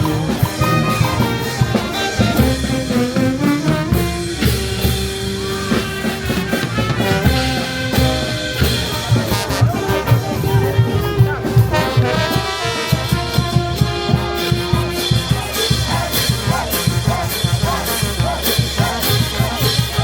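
Peruvian brass band playing a festive tune: trumpets and trombones carry the melody over a steady drum beat.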